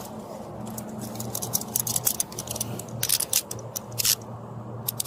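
Handcuffs being put on: a quick run of metallic clicks and rattles as the cuffs ratchet shut, bunched between about one and four seconds in, over a steady low hum.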